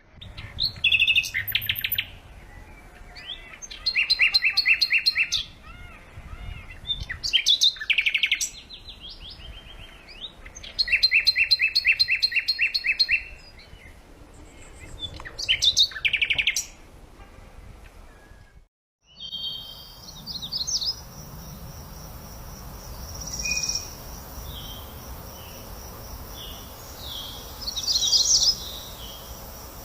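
Songbirds singing: loud phrases of fast trilled notes repeated every few seconds. After a brief break just before 19 s, softer bird chirps and trills come over a steady high-pitched hum.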